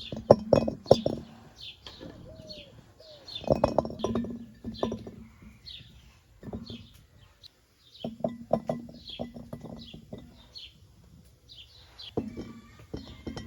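A bird calling over and over, a short falling chirp repeated about every half second. Clusters of sharp clicks and knocks come and go in bursts of a second or two.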